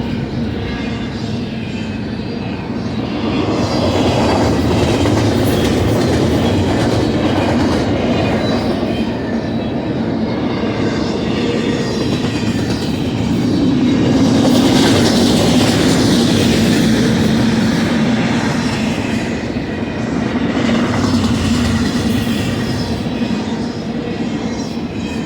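BNSF double-stack intermodal freight train rolling past: a steady rumble of container cars with wheels clicking over the rail joints and a faint wheel squeal. It swells louder twice.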